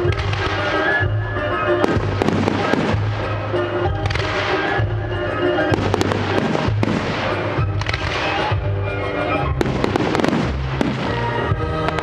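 Firework shells bursting in quick succession, about one a second, over loud music played for the display.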